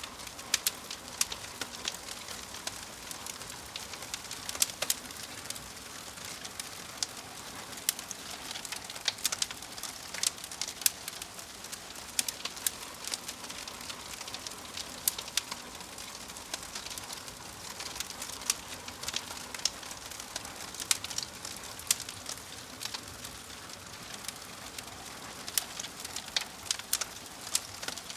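Log fire crackling: irregular sharp pops and snaps several times a second over a steady hiss.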